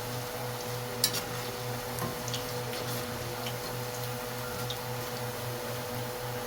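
Scattered light clicks and clinks of kitchen utensils over a steady low hum that pulses about three times a second; one click about a second in is louder.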